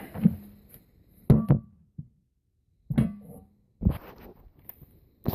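Hammer striking a center punch on a broken exhaust manifold bolt, marking its centre so the drill bit will start true: a few sharp metallic taps with gaps between, some with a short ring.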